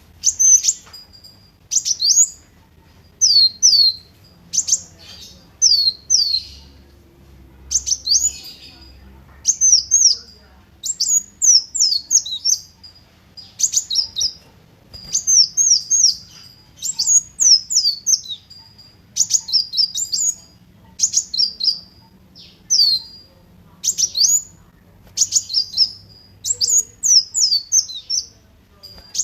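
Kolibri wulung sunbird singing: short, rapid phrases of high, sharp notes that sweep up and down, one phrase about every second.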